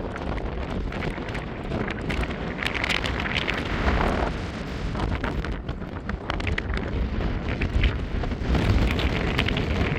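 Strong wind buffeting the microphone in gusts, a heavy rumbling rush with scattered crackles over it.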